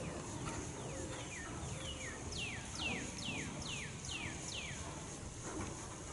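A bird singing a series of about ten whistled notes, each sliding down in pitch, repeated about twice a second and growing clearer through the middle of the phrase. Beneath it, the dull hoofbeats of a cantering horse on soft arena sand.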